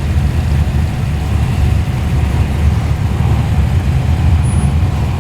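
Modified Ford Cortina's engine rumbling steadily as the car rolls slowly past.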